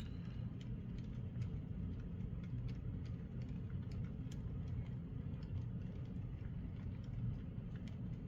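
N scale model locomotive on an Atlas VO-1000 mechanism running along the track: a steady low motor and gear hum with scattered light clicks.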